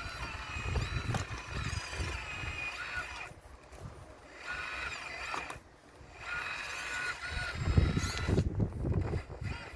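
RC model excavator's hydraulic pump and motors whining in spurts as the machine works, pausing briefly twice. Heavy low knocking and rumbling comes in about three-quarters of the way through.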